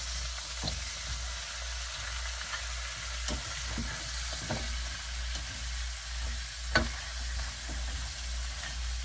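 Blue crabs and vegetables sizzling in a hot wok as they are stirred and flipped over, with a few sharp clicks of a utensil against the wok, the loudest about seven seconds in.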